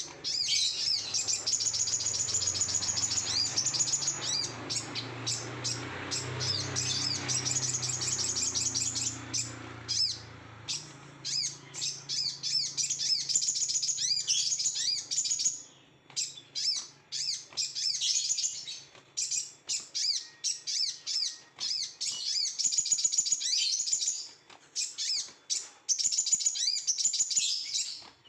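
A sogon songbird singing in fast, high chattering trills, with long unbroken runs of song broken up by short separate calls, the agitated, overexcited song that bird keepers call 'over emosi'. A low hum sits underneath for roughly the first ten seconds.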